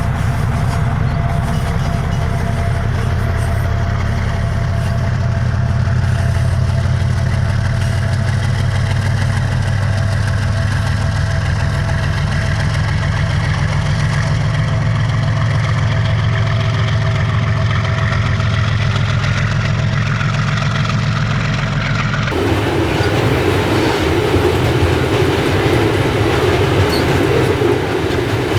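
Diesel freight locomotive's engine running loud and steady close by, with a fine rapid pulsing and a faint steady whine above it. About 22 seconds in the sound changes abruptly to the rumble of freight wagons rolling past on the rails.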